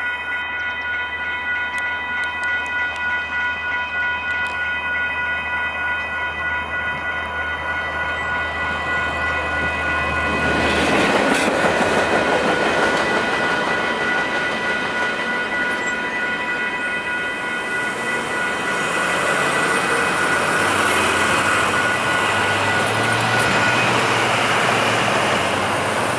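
Railroad crossing signal bell ringing in a steady, rapid rhythm. About ten seconds in, a train passing over the crossing adds a loud, continuous rumble and rail clatter. A thin high whine rises later, and the bell stops shortly before the end.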